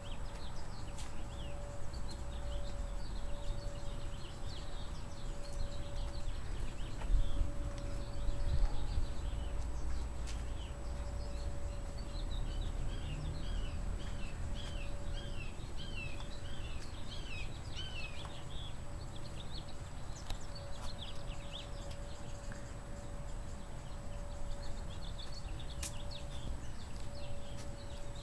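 Small birds chirping in quick series of short falling chirps, busiest about halfway through, over a low rumble and a faint steady hum.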